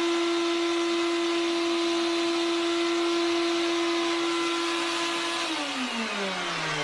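A small electric motor running at a steady pitch, then winding down with a falling pitch about five and a half seconds in, as if switched off.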